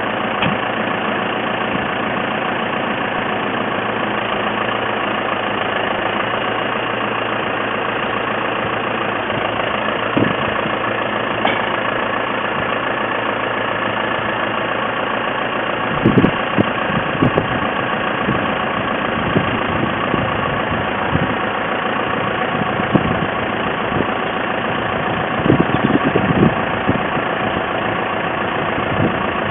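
Tractor engine idling steadily, with a run of short clunks and knocks about halfway through and again near the end.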